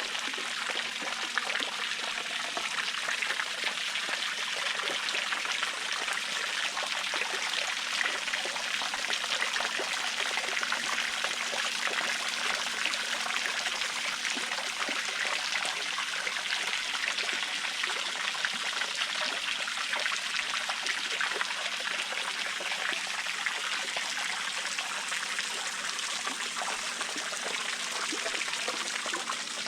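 Intex 28089 pool waterfall cascade running, water pouring and splashing in a steady, unbroken stream.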